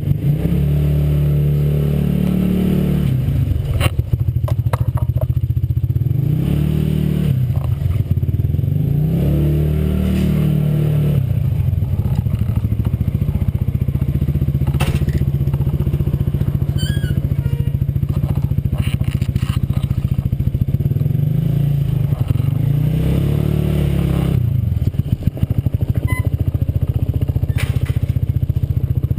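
Honda PCX scooter's single-cylinder four-stroke engine running through an aftermarket exhaust, with a J.Costa variator in its drive. The revs rise and fall back several times, with a few sharp clicks over the engine.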